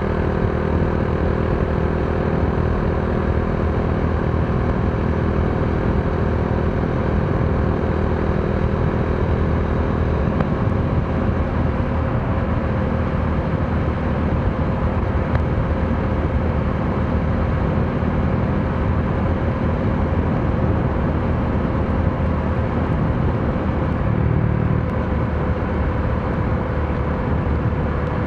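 Modenas Dominar D400's single-cylinder engine running at a steady, even speed while riding, under a constant rush of wind and road noise.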